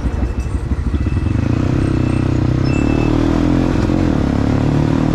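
Dirt bike engine heard from the rider's seat: a choppy, low-revving beat for about the first second, then a steady even run at higher revs.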